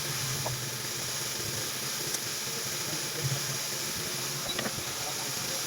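Steady hiss of air blowing, as from a hot air rework station used for reballing a phone's memory chip, with a few faint clicks over it.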